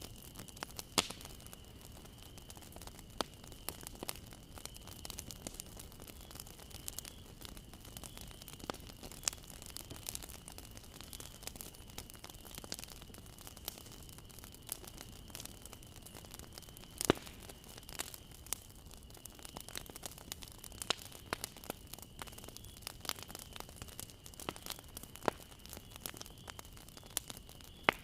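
Bonfire crackling: wood burning with a steady hiss and irregular sharp pops and snaps, the loudest about 17 seconds in. A thin steady high whine runs underneath.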